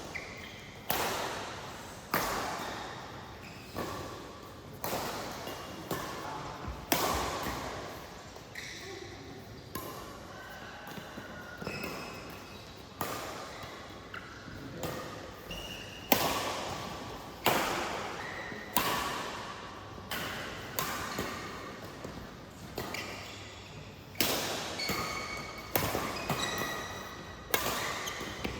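Badminton rally: sharp racket hits on the shuttlecock about once a second, each ringing out in the hall, with short high squeaks of shoes on the court between them.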